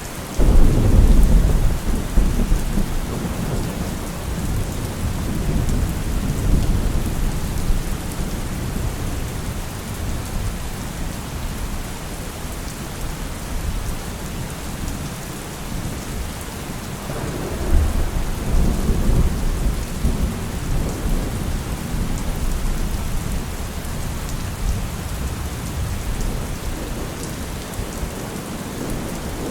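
Steady rain falling, with thunder rolling in deep, drawn-out rumbles: a loud peal just after the start that fades away over several seconds, and a second long rumble swelling up past the halfway point.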